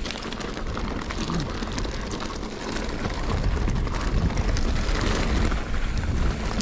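Wind buffeting the microphone: a steady low rumble and rush with scattered crackles.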